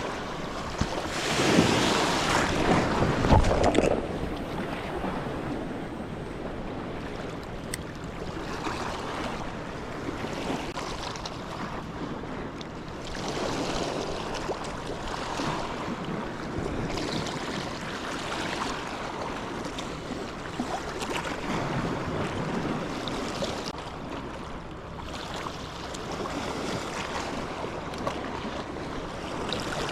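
Sea waves washing at the shoreline with wind buffeting the microphone, the sound swelling and easing; the loudest surge comes about a second in and lasts a few seconds.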